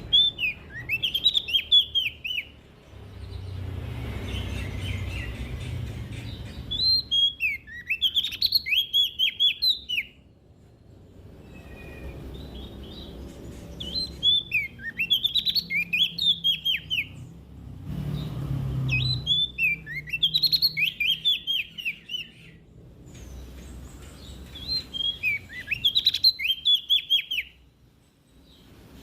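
Song of a small songbird that Indonesian keepers call prenjak daun: five bursts of rapid, high, sweeping chirps, each lasting about two to three seconds and repeated every five to seven seconds, with a low rumble in the pauses between them.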